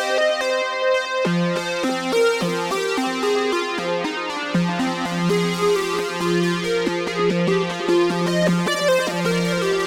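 Behringer Poly D analog synthesizer playing a quick sequence of short pitched notes, with a lower bass line coming in about a second in and repeating underneath.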